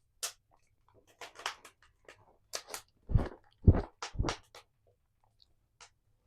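A person chewing and eating apple pie with short crunching, clicky mouth sounds. A few louder, deeper thuds come together about three seconds in.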